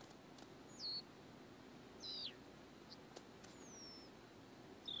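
Faint bird chirps: about four short, high whistled notes spaced through a few seconds, several falling in pitch, with a few tiny clicks over low background hiss.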